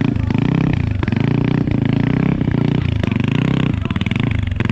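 Motorcycle engine running at low revs close by, with a rapid even pulse, as the bike is held at a crawl in a slow race where stalling or putting a foot down puts the rider out.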